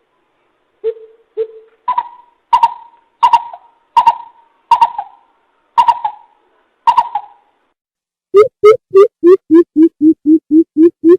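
Coucal (bìm bịp) calling: a couple of deep single hoots, then a slower run of sharper, higher notes, and from about eight seconds in a rapid, even series of deep hoop notes, about three a second.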